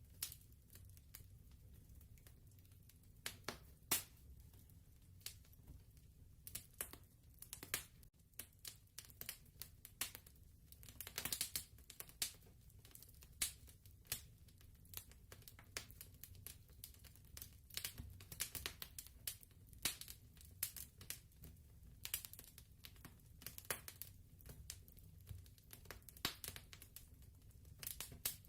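Wood fire crackling: irregular sharp pops and snaps of varying loudness over a low steady rumble.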